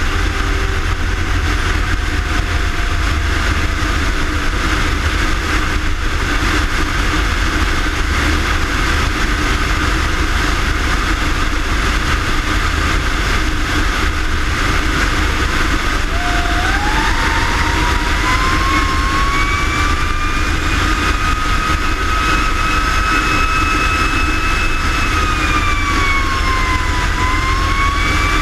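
Fire engine running with a steady heavy rumble, and a siren that winds up about halfway through, holds its pitch, dips briefly near the end and winds up again. A fainter siren tone slides down in the first few seconds.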